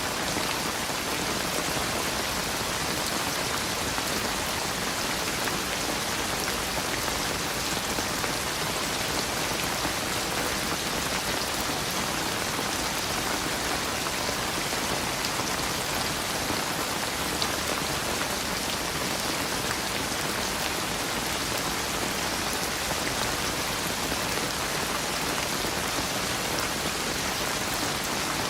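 Steady rain falling: an even, unbroken hiss of many drops with no let-up and no thunder.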